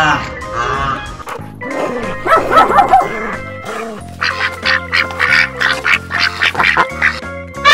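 Background music with added animal sound effects: a quick run of duck quacks through the second half, after other short animal calls earlier on.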